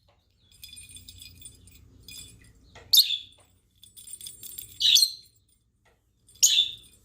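Faint jingling and rattling, like a small bell toy being knocked about, broken by three short, shrill chirps from a pet bird, about two seconds apart.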